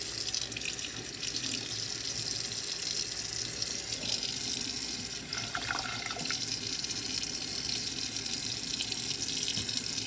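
Cold water running steadily from a sink tap, rinsing freshly dyed knife scales under the stream.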